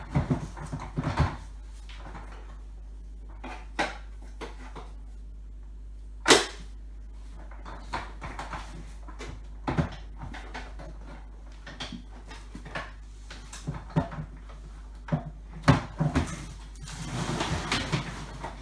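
Plastic parts of a Nilfisk Aero 26 vacuum cleaner being handled and pushed back into place after a bag change: scattered clicks and knocks, one sharp click about six seconds in, and a rustle near the end.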